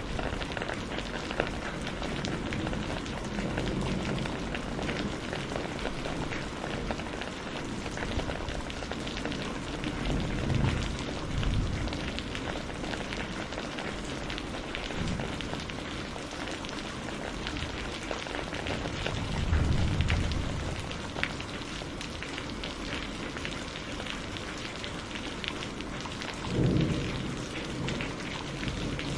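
Steady rain falling and pattering, with many small drop crackles. Low rumbles of thunder swell up three times: about ten seconds in, around twenty seconds in, and near the end.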